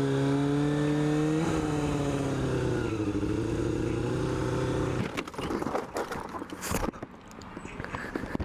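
Motorcycle engine held at high revs, its pitch falling after about a second and a half, then cutting off suddenly about five seconds in. A run of scrapes and knocks follows, with one loud hit near the seven-second mark.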